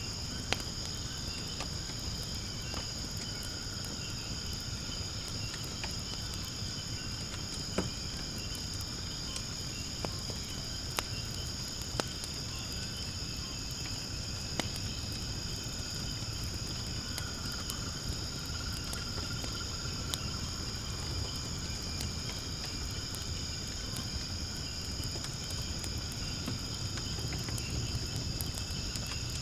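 Firewood burning in a fire pit, crackling with sharp pops at irregular intervals over a low rumble, while insects keep up a steady high-pitched chirring.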